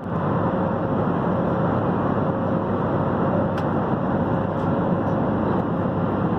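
Steady noise inside a moving passenger vehicle, an even rumble with a faint steady hum.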